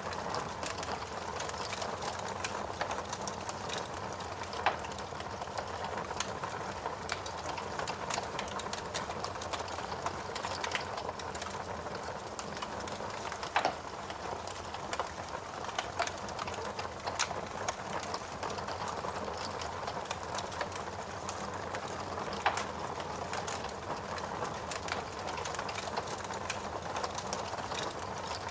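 Wood fire burning in a fireplace: a steady hiss with dense crackling and a few louder snaps.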